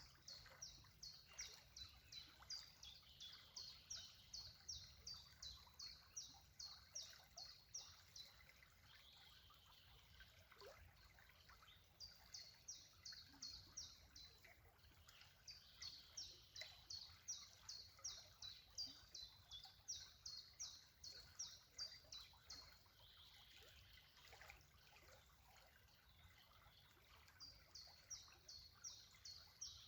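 A bird repeating a short, high, falling note about three times a second in long runs, pausing between bouts, over a faint steady outdoor background.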